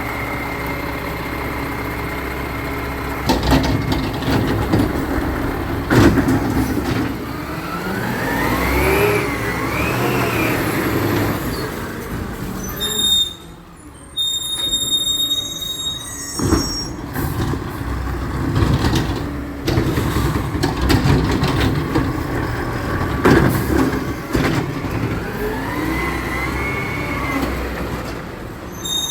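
Recycling truck's diesel engine idling, then revving up and down twice as it works the lift, with several loud bangs and clanks of the bin being handled and emptied.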